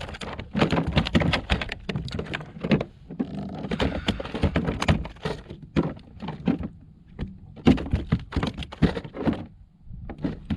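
Irregular thunks, knocks and clatters on a plastic kayak as a freshly caught speckled trout is handled aboard.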